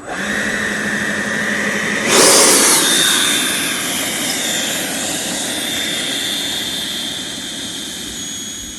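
Electric ducted fans of an RC MiG-29 jet model whining. About two seconds in, the throttle is opened: a loud rush of air and the whine jumps higher in pitch, then holds as a steady high whine that eases slightly near the end.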